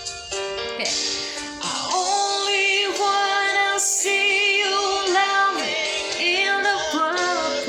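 A woman singing a slow melody with held, wavering notes over backing music.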